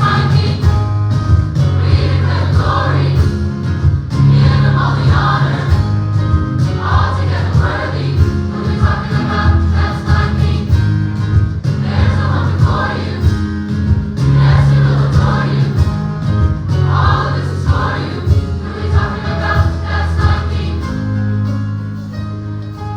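Gospel choir singing with instrumental accompaniment, sustained bass notes underneath; the singing drops away near the end, leaving mostly the instruments.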